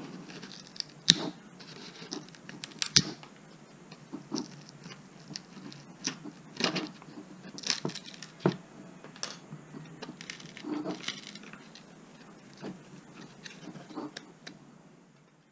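Irregular sharp clicks and scratchy crackling as charred webbing is cut and snapped away from the spar of a Depron foam model-aircraft wing.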